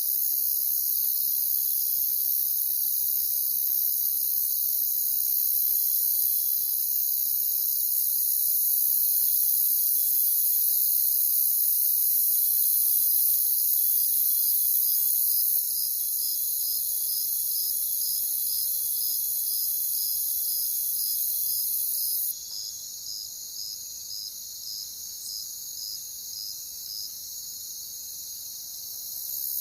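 Chorus of crickets chirping in a steady high-pitched trill. In the second half one cricket's separate chirps stand out, about two a second. The chorus drops suddenly in loudness about 22 seconds in.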